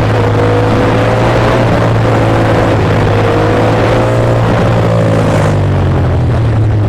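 Ducati Monster S2R's air-cooled V-twin running at a steady cruise, its pitch drifting slightly up and down, under a steady rush of wind noise.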